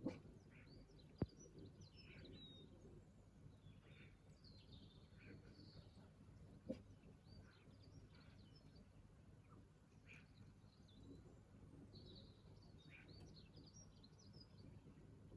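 Faint wild birdsong: many short chirps and twitters from several birds, over a low steady background rumble, with two sharp clicks, about a second in and near the middle.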